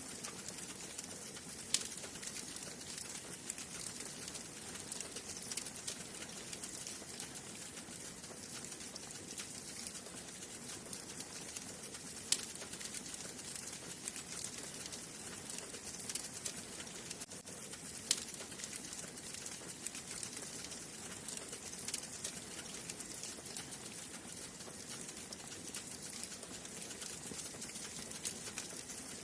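Wood fire burning in a fireplace, crackling steadily with a soft hiss, with occasional sharper pops from the burning wood, including distinct ones about 2, 12 and 18 seconds in.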